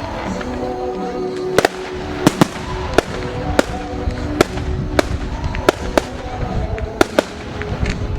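Fireworks going off at a display: about a dozen sharp bangs and cracks at irregular intervals, over a low rumble, with music playing underneath.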